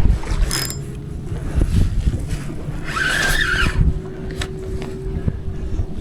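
Low wind rumble on the microphone and scattered knocks of fishing gear being handled in a kayak, with a brief high squeal about three seconds in.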